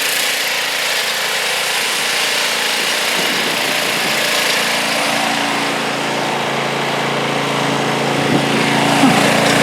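Sears Suburban garden tractor's engine running steadily.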